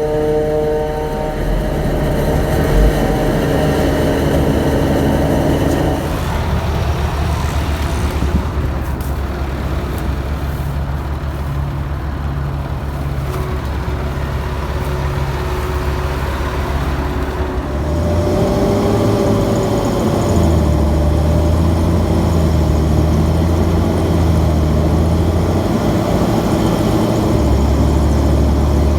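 Heavy diesel engines of a Claas Jaguar 690 forage harvester and a Fendt Favorit 916 Vario tractor working under load while chopping maize. The steady engine note drops about six seconds in and picks up again around eighteen seconds in.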